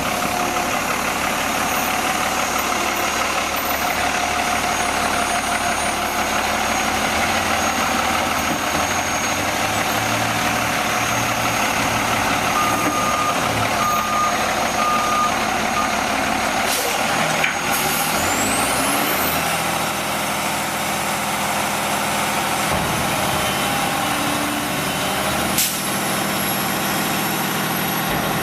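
Autocar Xpeditor roll-off garbage truck running steadily at work. Its reversing beeper sounds three short beeps about halfway through, and there are two sharp knocks, one a little later and one near the end.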